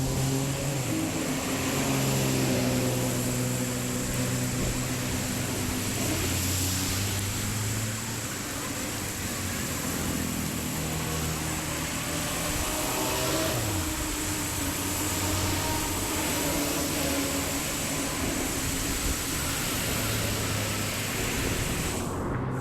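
An engine running steadily, its pitch shifting now and then, over a continuous rushing noise; the sound breaks off abruptly near the end.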